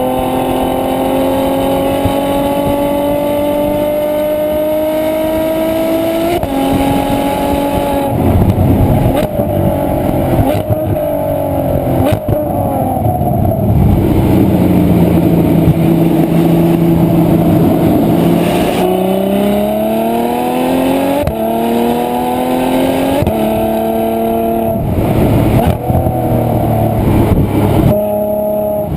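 Ferrari F12 Berlinetta's V12 engine accelerating hard, its pitch rising steadily and dropping sharply at upshifts around six and eight seconds in. In the middle it eases off and holds a steady lower note. After that it climbs again through a quick series of upshifts near the end.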